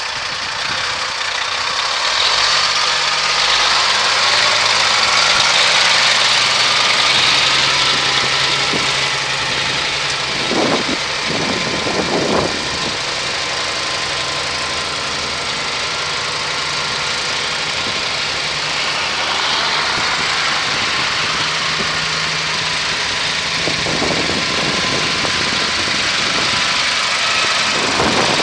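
Diesel engine of a 2007 Kenworth W900 truck tractor running steadily.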